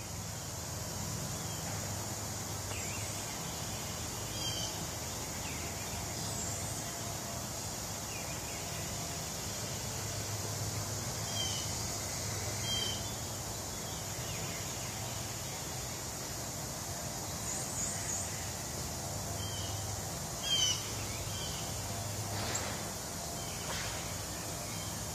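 Birds chirping now and then, short scattered calls, over a steady high hiss; one chirp about twenty seconds in is louder than the rest.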